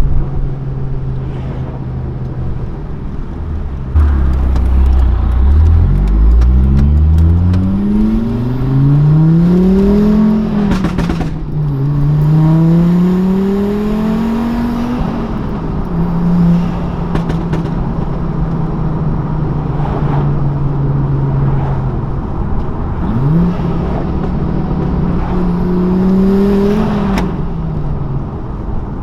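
Straight-piped Volvo S60R's 2.5-litre turbocharged five-cylinder engine pulling hard through the gears: the pitch climbs, drops back at each shift, holds steady for several seconds in the middle, then climbs again near the end.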